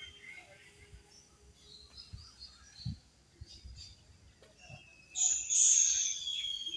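Birds chirping in the open air, with one loud, high call lasting about a second and a half near the end; a few soft, low thuds.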